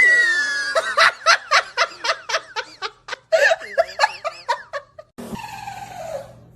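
A person laughing hard in rapid high-pitched bursts, about four or five a second, with a short break in the middle. Near the end the sound cuts to a steady hiss with a falling whine.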